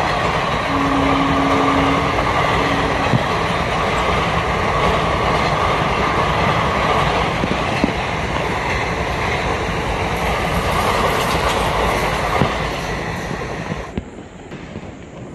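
Passenger train passing close at speed: a steady loud rush of wheels on rails with a clickety-clack of coaches going over rail joints. It falls away sharply about fourteen seconds in as the last coach goes by.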